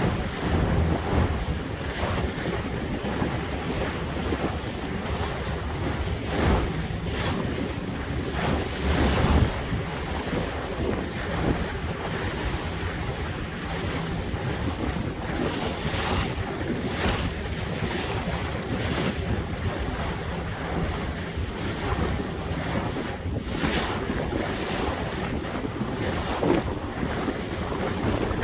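Boat under way on the water, with water rushing and splashing along the hull and a low rumble beneath. Wind buffets the microphone in repeated gusts.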